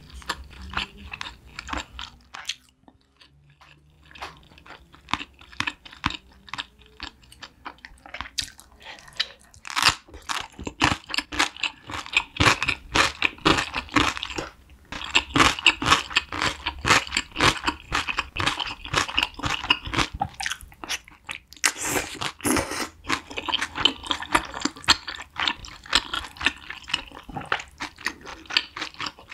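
Close-miked chewing and biting of food, turning to dense, crisp crunching from about ten seconds in as pickled yellow radish (danmuji) is eaten.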